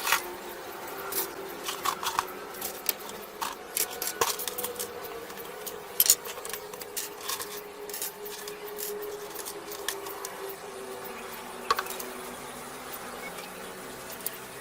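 Scattered sharp clicks and clinks of small hard objects being handled, over a steady low hum. The loudest click comes about six seconds in.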